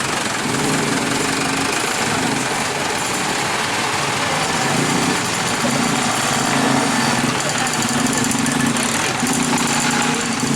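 Heavy vehicle's diesel engine idling steadily close by.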